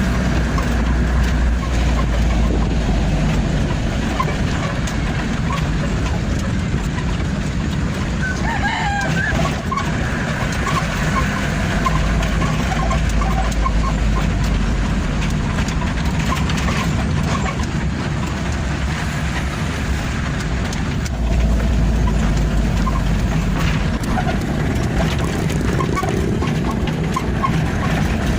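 Truck engine running with steady road rumble while driving, the low rumble swelling a few times. A short, wavering higher-pitched call sounds about eight to ten seconds in.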